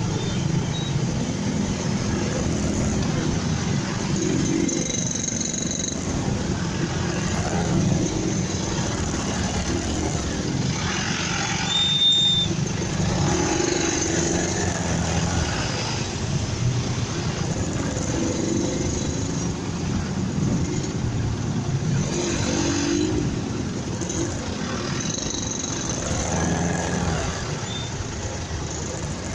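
Motorcycle under way in traffic: steady engine and road noise with some rise and fall in the engine note. A brief high beep about twelve seconds in.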